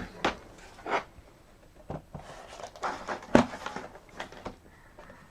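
Laptop parts being handled and set down: a string of irregular knocks and clicks with some rustling, the sharpest knock about three and a half seconds in.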